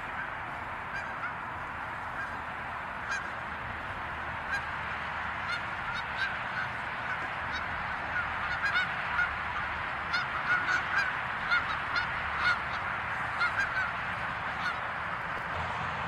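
Flock of Canada geese honking: many short honks from several birds, scattered at first, coming thick and fast from about halfway, then thinning out near the end, over a steady hiss.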